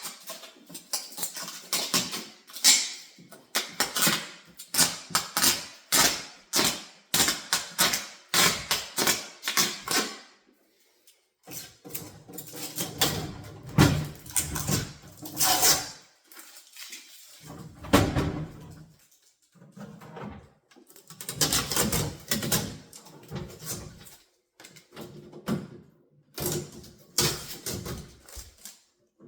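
Handling noise from unpacking a new refrigerator: quick runs of crackles, rustles and knocks from packaging and parts being moved, broken by a few short pauses.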